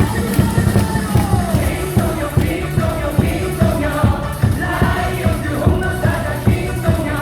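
Stadium cheering music with a steady drum beat, a crowd of fans singing along.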